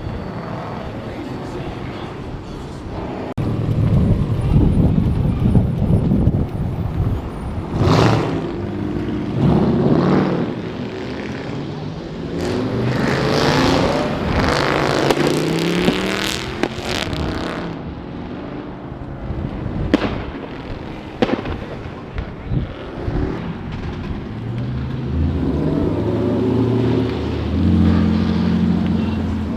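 Car engines revving hard and accelerating, the pitch rising and falling. There are several sharp cracks, and a steadier engine hum near the end.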